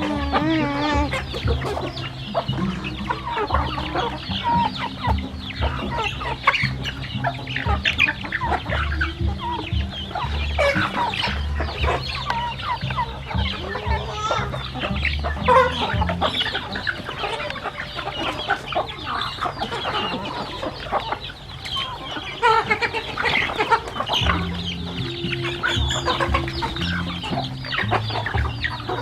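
A flock of domestic chickens clucking, with many short calls overlapping throughout.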